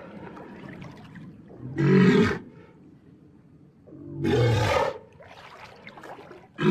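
Creature sound effects for a giant prehistoric crocodile, Sarcosuchus: loud roars about 2 and 4.5 seconds in, with a low growl between them and a third roar starting at the very end.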